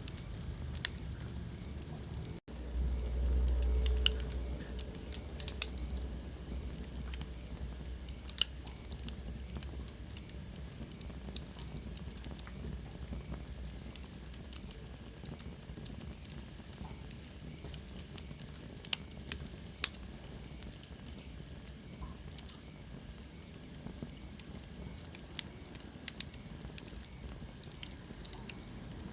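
Wood fire burning in a fireplace, crackling with irregular sharp pops over a soft steady hiss. A low rumble swells for about a second and a half near the start, and a faint high whistle falls in pitch about two-thirds of the way through.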